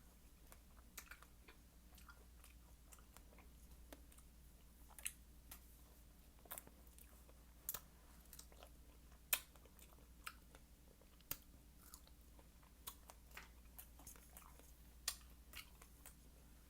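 Quiet close-miked chewing of fruit: wet mouth clicks and smacks at irregular intervals, a few of them sharper and louder.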